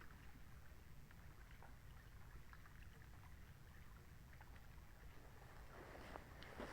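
Near silence: a faint steady low rumble with scattered soft ticks, and a short rustle near the end.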